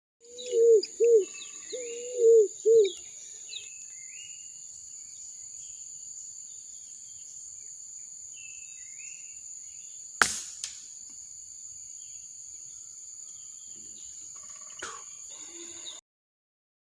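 Forest birds calling over a steady high insect drone. A bird gives five loud, low, arched calls in the first three seconds, with smaller chirps above. About ten seconds in comes one sharp crack.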